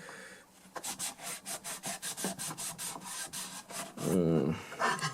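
Rapid back-and-forth scrubbing of the dirty back side of a DI box circuit board, about four to five rubbing strokes a second, with a brief voice sound near the end.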